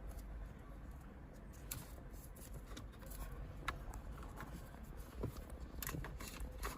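Faint rustling and light clicks of hands handling wiring harness cables and plastic plug connectors, with scattered small clicks that come more often in the last couple of seconds.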